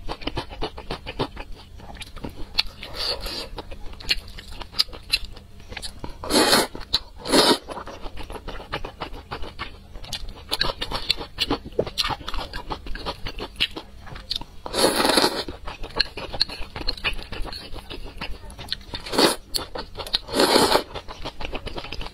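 Close-miked eating sounds of thick sauced noodles being chewed: a steady run of small wet clicks and crunches, broken by about five louder, longer bursts.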